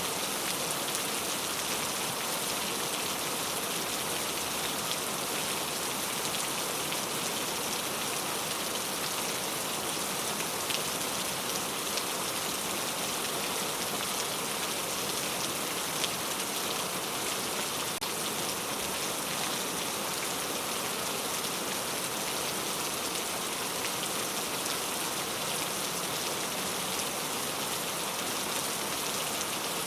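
Steady rain falling, an even hiss of many drops with an occasional louder drop ticking.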